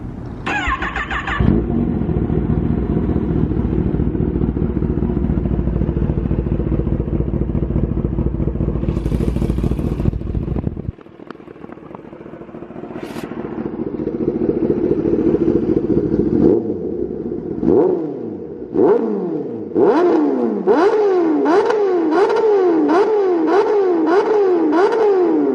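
Kawasaki ZX-10R inline-four sport bike engine revved through its exhaust. It runs steadily at low revs for about ten seconds after a short blip. After a break it builds up again. Near the end it is blipped hard over and over, about twice a second, to the same high rpm each time.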